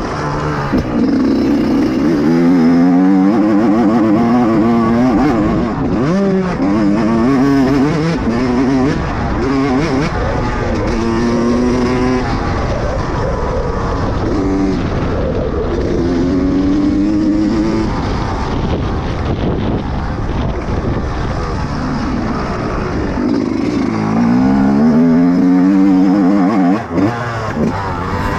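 Dirt-bike engine on a motocross track, revving up and dropping back again and again as the throttle is opened and closed.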